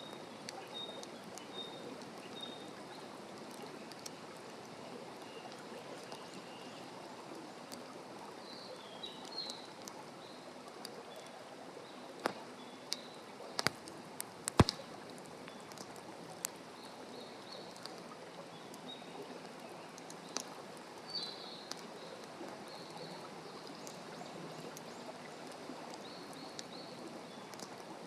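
Wood campfire crackling, with scattered sharp pops, the loudest about halfway through, over a steady rushing hiss. Short high chirps come and go in the background.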